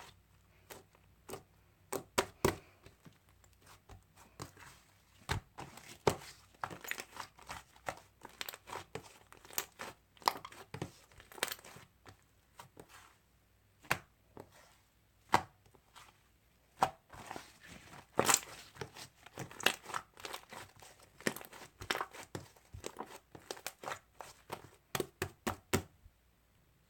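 Slime being pressed, stretched and pulled apart by hand, making irregular sticky pops, clicks and tearing crackles.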